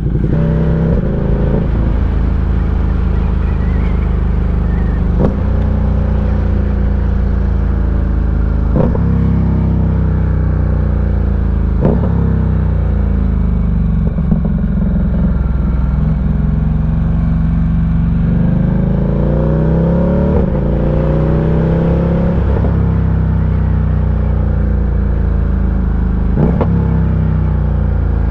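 Ducati Diavel 1260's V-twin engine under way, accelerating through the gears: its pitch climbs and drops back at each upshift, several times over. Steady wind noise runs underneath.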